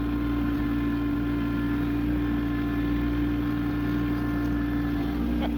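Kubota tractor's engine running at a steady, unchanging pitch while powering its snowblower attachment.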